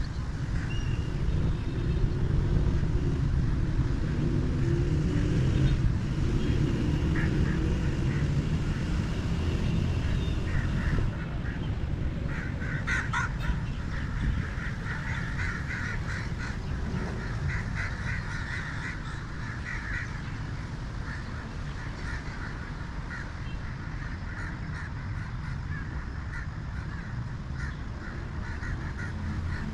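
Birds calling in clusters of short repeated calls, busiest from about twelve to twenty-two seconds in, over a steady low rumble.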